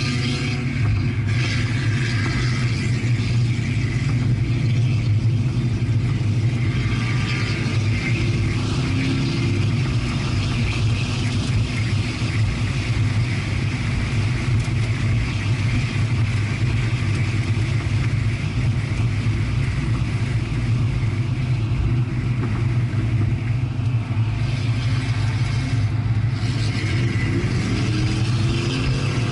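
Chevrolet Corvette's V8 engine and tyre and road noise heard from inside the cabin: a steady low drone as the car picks up speed on track, with a faint rising engine note a few times.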